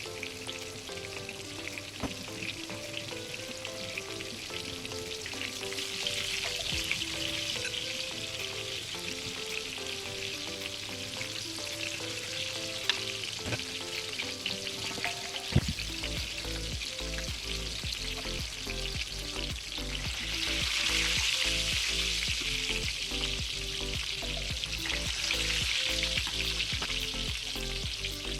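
Floured chicken fillets frying in shallow oil in a pan: a steady sizzle that swells louder a few times, with a few small pops. Soft background music plays underneath, and a bass line comes in about halfway.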